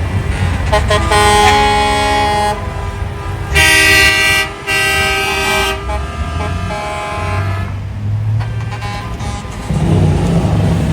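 Semi-truck air horns blowing long, steady blasts, several horns overlapping, the loudest about four seconds in, over the low rumble of big-rig diesel engines. The horns stop about eight seconds in, leaving the engine rumble.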